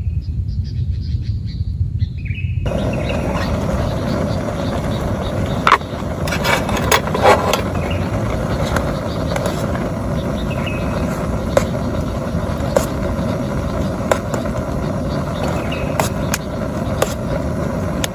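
A low rumble with birds chirping, then from about three seconds in, steady heavy rain with scattered sharp taps of large drops, busiest around the middle, and a bird chirping faintly now and then.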